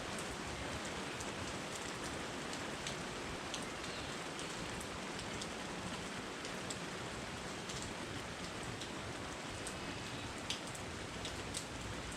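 Steady rain falling, an even hiss with scattered sharp drop ticks close by.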